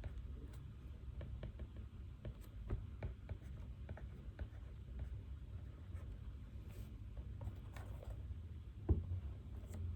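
Pen writing on paper: a run of small, irregular scratches and taps over a low steady room hum, with one louder knock about nine seconds in.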